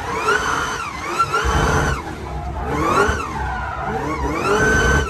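Car engine revving up and down repeatedly, with a high whine that rises and falls with the revs about every second and a half.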